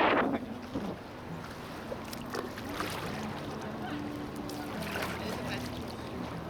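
Water splashing and lapping around a small paddled boat, with a few faint paddle splashes and a steady low hum underneath.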